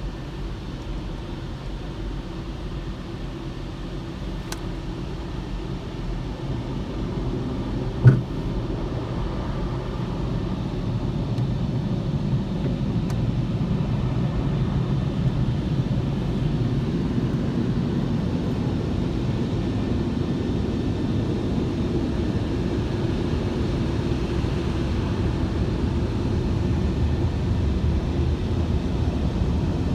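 Steady low rumble of a car, swelling a little louder partway through, with a single sharp click about eight seconds in.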